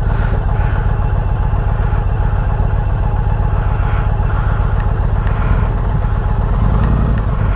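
Indian Challenger Elite's 108 cubic-inch PowerPlus liquid-cooled V-twin, breathing through a Bassani 2-into-1 exhaust, idling steadily with an even low pulsing beat.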